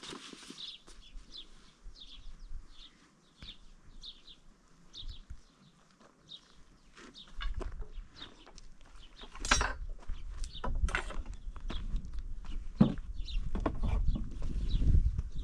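A small bird chirping over and over, short high notes about twice a second. From about halfway a low rumble comes in, with two sharp knocks a second or so apart.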